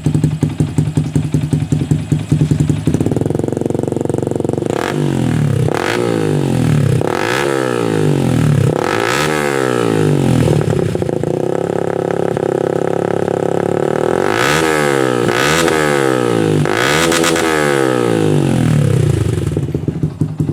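Yamaha Vixion single-cylinder four-stroke motorcycle engine running through an aftermarket exhaust with a bass note. It idles with a pulsing beat, then is revved in a string of throttle blips that rise and fall, held up for a few seconds in the middle, and drops back toward idle near the end.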